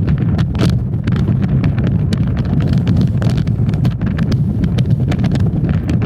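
Strong storm wind buffeting a vehicle and the microphone: a loud, steady low rumble with frequent small sharp ticks throughout.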